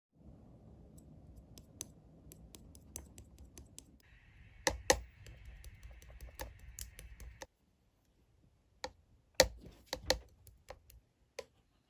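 Slime being squished and pressed by hand, giving sharp clicking and popping sounds at irregular intervals, loudest about five seconds in and again near nine and a half and ten seconds in.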